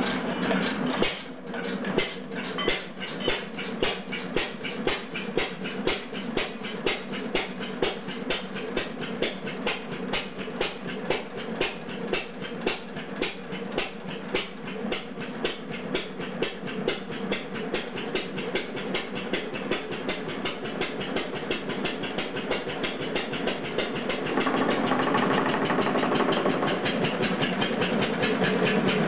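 Bradford stationary gas engine running, a rapid even mechanical clatter with regular heavier beats; it gets louder and fuller near the end. The owner calls its governor a little twitchy on this run.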